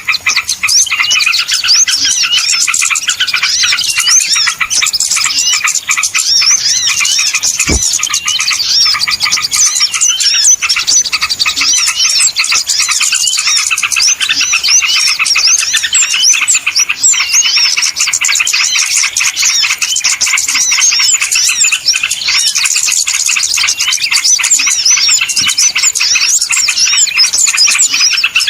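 A dense chorus of many small birds chirping and twittering at once, a loud, unbroken mass of quick high chirps, used as a lure call to draw small birds in for trapping. A single brief click sounds about eight seconds in.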